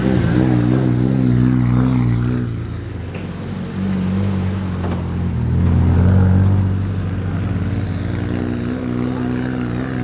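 Car engines running at low revs with a deep, steady exhaust rumble as cars pull slowly away. The rumble swells about six seconds in, with no hard revving.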